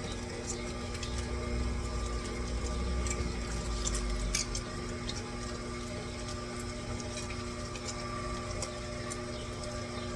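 Electric meat grinder running steadily with a constant motor hum while grinding raw chicken, with scattered small clicks.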